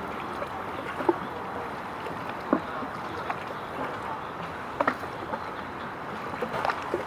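Steady waterside noise with a handful of short knocks or slaps: one about a second in, another midway, a quick double near five seconds, and one near the end.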